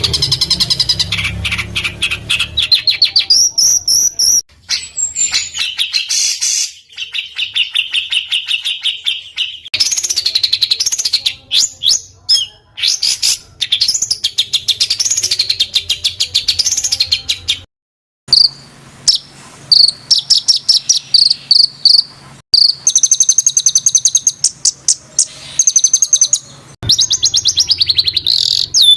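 Songbird masteran recording of tight rolls and harsh, rapid-fire 'tembakan' phrases: fast trills of closely repeated high notes, some rising and falling, spliced together so the song changes abruptly several times, with a brief break about two thirds of the way through.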